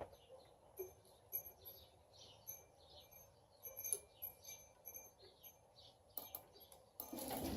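Faint birds chirping in the background, a string of short, high chirps every fraction of a second, with a few soft clicks and a louder burst of noise near the end.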